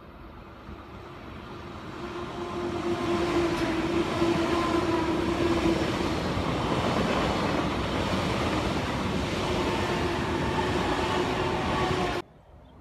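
SBB RABDe 500 ICN tilting electric train approaching and passing close by. It grows louder over the first three seconds, then holds as a loud rush of wheels on rail and air with a steady tone running under it. The sound cuts off suddenly near the end.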